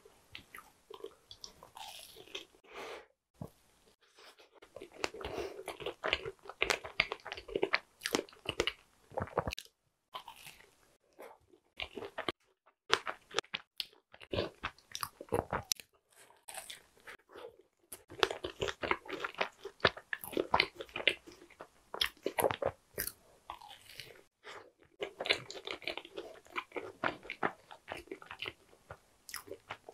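Mouth chewing a strawberry tart: crunching of the tart crust with softer wet chewing, in four bouts with short quiet pauses between.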